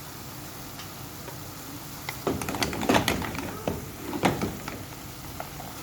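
A quick cluster of clicks and knocks about two seconds in, then one more knock about a second later, over a steady background hiss.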